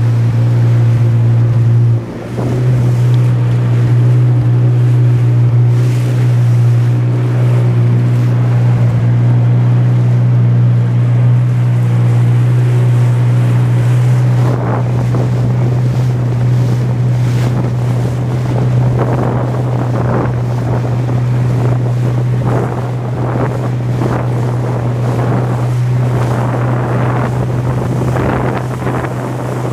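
Jet ski engine running with a steady drone, dipping briefly about two seconds in. From about halfway, rushing wind and splashing water grow loud over the engine.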